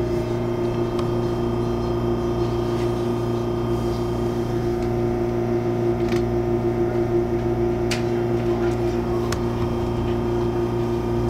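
Steady electrical hum and low drone inside an MTR Airport Express CAF train carriage, several fixed tones over the running noise, with a few faint clicks.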